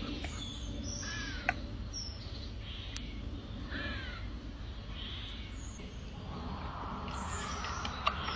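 Birds calling: short cawing and chirping calls, with two falling calls about a second in and about four seconds in, and a few sharp clicks.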